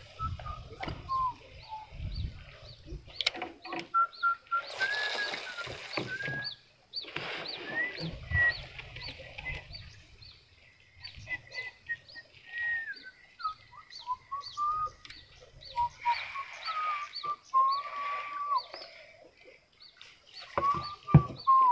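Birds calling: thin whistled notes sliding slowly up and down, with a high chirp repeating about twice a second through the middle. A few clicks and rustles of handling are mixed in.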